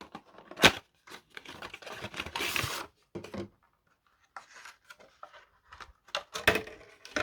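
Boxed model railway wagons being unpacked by hand: rustling and small clicks of the packaging, a sharp click under a second in, and a short rasping rush of noise about two and a half seconds in.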